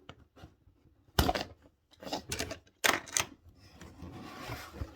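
A cardboard box and its packaging being worked open by hand: a few sharp knocks and clicks, then a soft rustling near the end.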